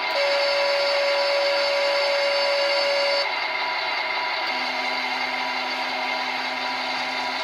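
Electronic sound module in a Kyosho Blizzard SR RC snowcat playing a synthesized engine sound through its small speaker, steady. A held tone sits on top of it for about the first three seconds, and a lower held tone joins in for the last three.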